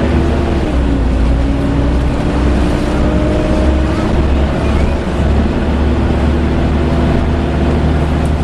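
Volvo B7TL double-decker bus heard from on board: a low engine rumble under a steady, loud hoovering whine from the cooling fan. The whine steps down slightly in pitch about a second in and again near the end.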